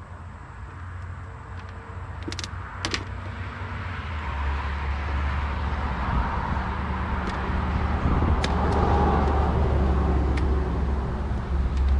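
A motor vehicle's engine on the road, growing louder over the first several seconds and staying loud as a low rumble. A few sharp clicks come about two to three seconds in.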